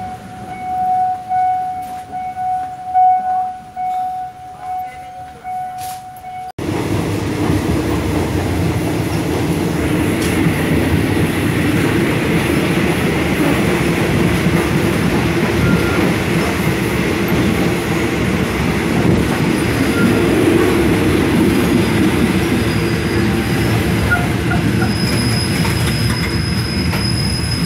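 Passenger train running, heard through an open carriage door: a steady rumble of wheels on rail, with a high wheel squeal setting in near the end as the train slows into a station. In the first few seconds, before a sudden cut, a level crossing's warning signal rings steadily.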